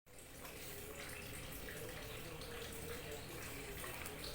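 Small waterfall trickling and splashing steadily, with short bubbling notes through the rush of water.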